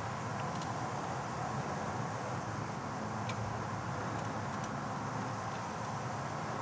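Steady background rumble of distant traffic, with a few faint ticks.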